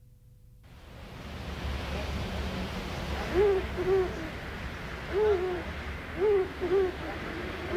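Short hooting bird calls, each rising then falling in pitch, coming singly and in pairs over a steady hiss with a low rumble. The hiss and rumble fade in about a second in, and the calls start about halfway through.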